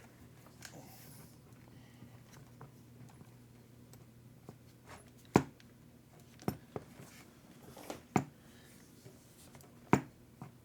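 Sharp, irregular taps and clicks of a tool against the parts of an RC truggy's suspension as hinge pins are worked into the A-arms. About six strokes, the loudest about halfway through and near the end.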